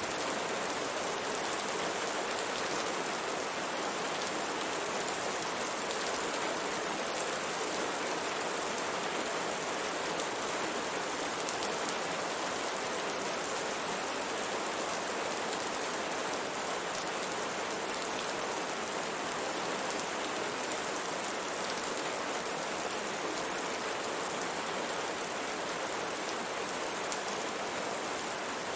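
Steady rain pattering on a window pane, an even hiss of many small drops.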